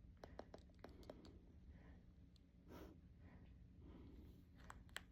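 Near silence in a small room, with scattered faint clicks and a soft breath-like sigh a little under three seconds in.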